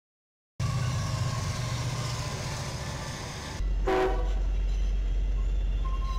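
A freight train's steady rumble, then a Union Pacific diesel locomotive rolling past with a deep, steady engine drone. About four seconds in it sounds one short horn blast.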